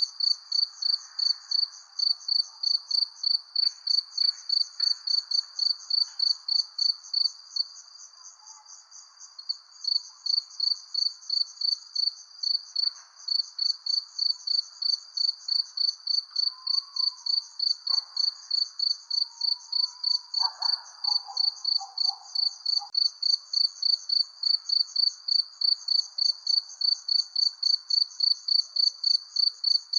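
Cricket chirping in an even, high-pitched rhythm of about two to three chirps a second, with a brief softer stretch about eight seconds in. A faint night background sits under it.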